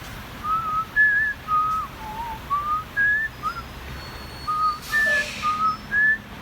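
A person whistling a tune: a string of clear single notes wandering up and down in pitch, with a short hiss about five seconds in.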